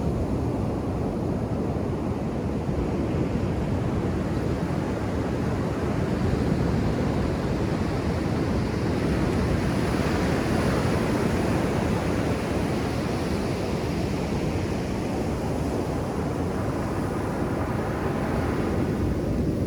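Ocean surf on a beach: a steady, low rush of waves, growing brighter and hissier about halfway through as a wave breaks and washes in, and again briefly near the end.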